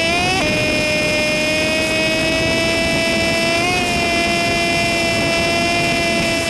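Motorcycle engine running while riding, its sound sped up by the timelapse into a high, steady whine. The pitch steps down less than a second in, then holds nearly level.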